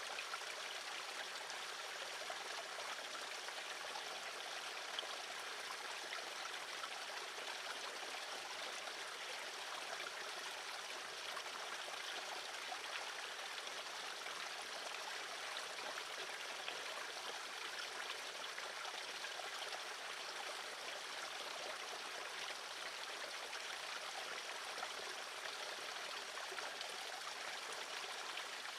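Steady, even rushing noise like running water, unchanged throughout, with no distinct bird calls standing out.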